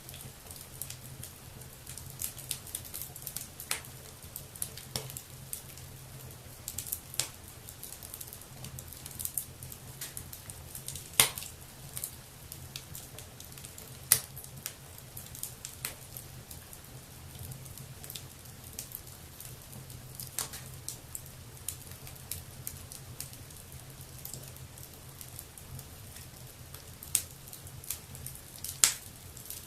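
Wood fire burning in a fireplace, crackling steadily with irregular small pops and a few louder, sharper snaps, under a steady low hum.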